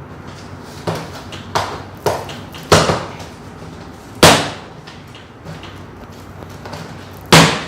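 Cardboard shipping box being opened by hand: a series of short, sharp scrapes and thuds as the flaps and packing are pulled open, the loudest about four seconds in and again near the end.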